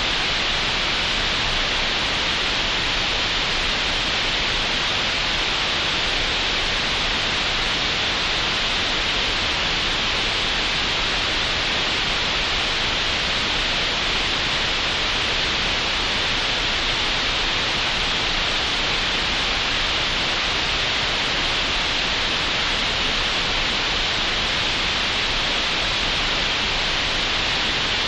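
Synthetic green noise generated in Audacity: a steady, even hiss that does not change.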